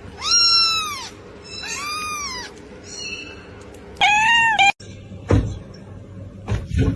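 A cat meowing four times, high-pitched calls that rise and fall in pitch, the first and last loudest. The last meow cuts off abruptly, followed by a couple of light knocks.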